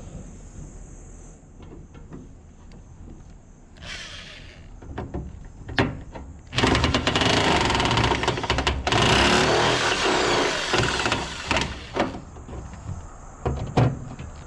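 Power nibbler cutting the vent hole through the wall, its motor running loudly in two long bursts with a short pause between, then a few short bursts near the end, after a few quiet clicks.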